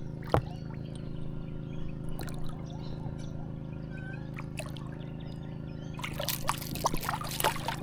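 Water trickling and splashing around a kayak hull, over a steady low hum. There is a single sharp knock just after the start, and a run of splashing and clattering near the end.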